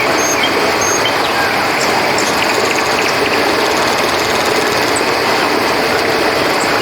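River water flowing steadily, with crickets and a few short high chirps now and then.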